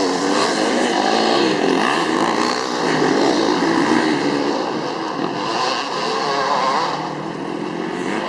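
Several dirt bike engines revving at once during a motocross race, their pitch rising and falling as they accelerate and shift, overlapping throughout.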